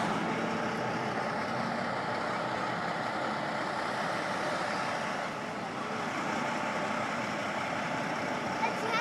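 Steady vehicle and traffic noise, an even rumble and hiss with a faint hum, typical of a truck's engine running nearby.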